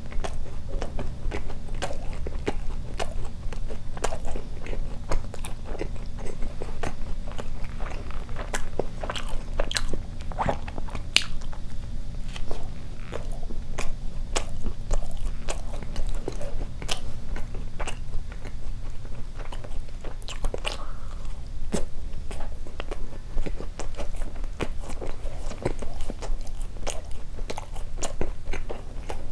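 Close-miked chewing of a bite of glazed doughnut: many small, irregular mouth clicks and smacks, over a steady low hum.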